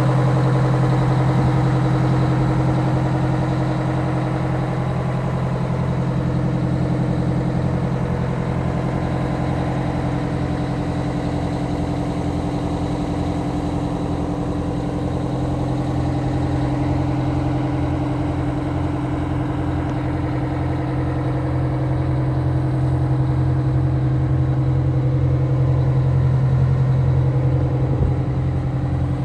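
Oshkosh M1075 PLS truck's Detroit 8V92 two-stroke turbo-diesel V8 idling steadily.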